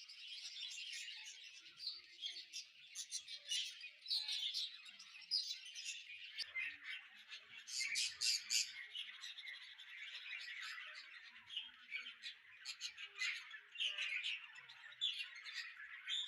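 A flock of small birds chirping and squawking over one another in a dense, unbroken chatter, with clusters of sharper, louder calls now and then.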